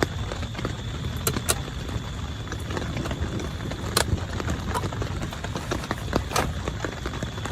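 Heavy rain on a small tent: a steady wash of rain with many irregular sharp drops tapping on the fabric. A faint steady high tone runs underneath.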